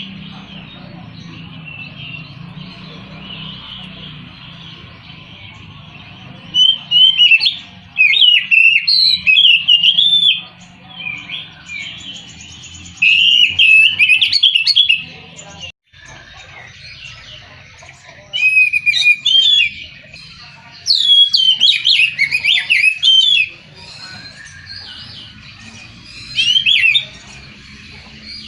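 Oriental magpie-robin (kacer) singing: about six loud bursts of rapid, varied whistled phrases, separated by short pauses.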